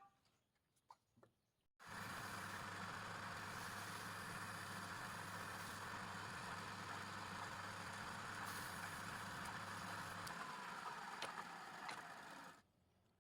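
A machine motor running steadily, a hum with a hiss over it. It cuts in abruptly about two seconds in and cuts off just before the end.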